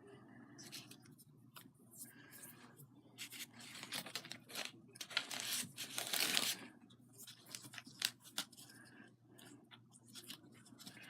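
Scissors cutting through paper: a run of quick snips and rustling, densest around the middle, then a few scattered sharp clicks.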